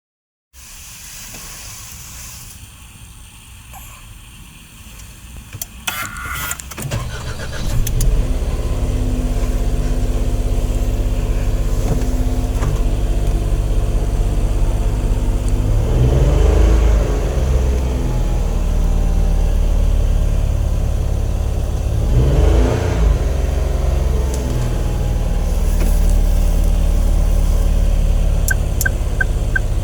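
Subaru Stella's 660 cc three-cylinder engine starting after a few clicks, then idling steadily, with two brief revs that rise and fall back to idle. Near the end a rapid series of short electronic warning beeps from the car's buzzer.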